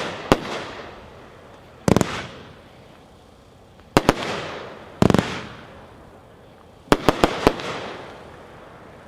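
Aerial fireworks cake (Magnus 'Walk the Plank', 22 shots) firing: sharp bursts about every one to two seconds, each trailing off in a fading tail, with four quick reports close together about seven seconds in.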